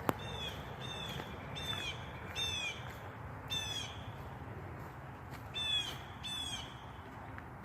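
A bird calling over and over: seven short, downward-slurred calls in quick runs, with a gap in the middle. A single sharp click right at the start.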